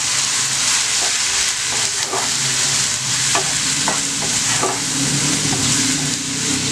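Chopped tomatoes, onions and ground masala sizzling in oil in a non-stick pan while a wooden spatula stirs and scrapes them, with a scrape every second or so. The tomatoes are frying down and softening with the spices. A low hum sets in about halfway.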